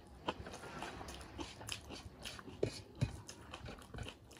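Close-mic eating sounds of a person chewing rice and curry and smacking her lips, a string of irregular soft smacks and clicks, two stronger ones about two thirds of the way in.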